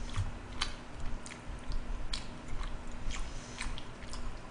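Mouth chewing braised pig's trotters (jokbal): a scatter of short, wet clicks and smacks at uneven intervals.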